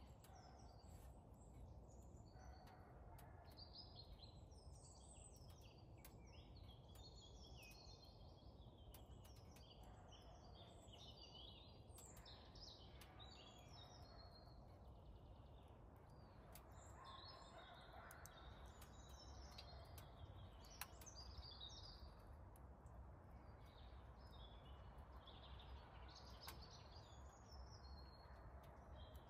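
Faint birdsong in woodland: several birds chirping and warbling continuously over a low steady rumble, with a few faint clicks, the clearest about two-thirds of the way through.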